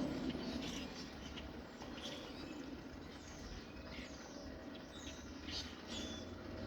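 Birds chirping: a string of short, high, down-slurred chirps over a steady hiss of rain.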